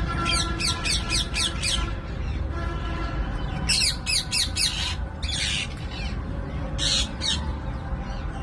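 Parrots squawking: a run of quick, harsh, repeated calls in the first two seconds and another around four seconds in, then a few single screeches.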